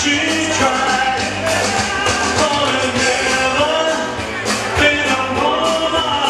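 Live band playing an upbeat country-rock song, with singing over drums, bass and guitars.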